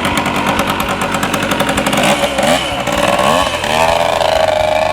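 Small two-stroke single-cylinder engine of a 1979 Kawasaki KM100 dirt bike running, revving up and down about two seconds in, then holding higher revs. It is not running its best, having only just been got going again.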